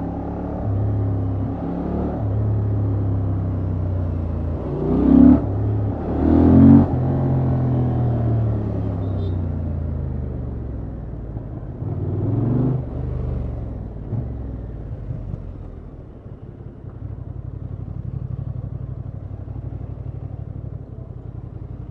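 Honda XL750 Transalp's parallel-twin engine through its stock exhaust, running steadily with two sharp bursts of throttle, the pitch rising each time, about five and six and a half seconds in, the loudest moments. Another rising surge comes around twelve seconds, and it settles to a quieter steady run for the last several seconds.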